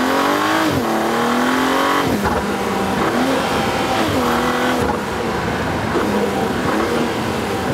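Joke sound effect of a combustion-engine car accelerating hard through the gears, its engine note climbing and then dropping at each of several shifts, laid over an electric car that in fact runs almost silent.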